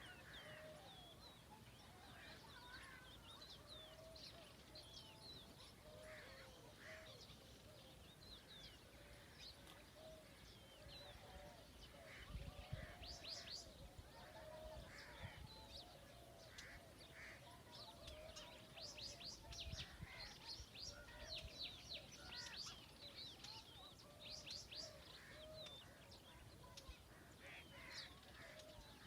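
Several birds chirping and calling together, faintly. Rapid high chirps come in dense runs through the middle and later part, over a lower warbling call that repeats throughout.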